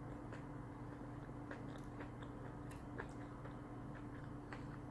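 Faint chewing of food, with a few soft mouth clicks, over a steady low hum.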